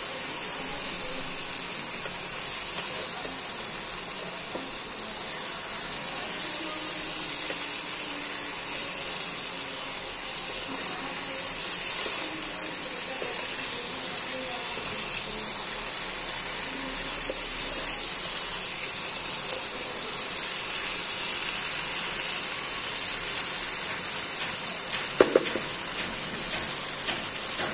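Chicken pieces and tomato in masala sizzling steadily in a hot oiled pan while being stirred with a wooden spatula, with one sharp knock near the end.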